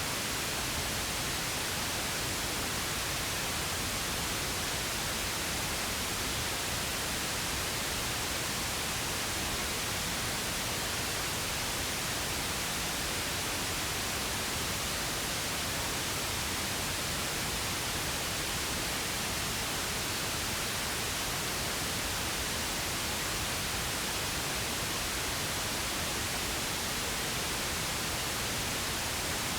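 Steady synthetic pink noise: an even, unchanging hiss spread across the whole range, without any tone, rhythm or change.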